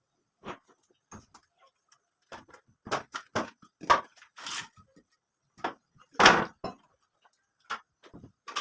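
Irregular knocks and clatters of house-repair work, unevenly spaced, the loudest about six seconds in.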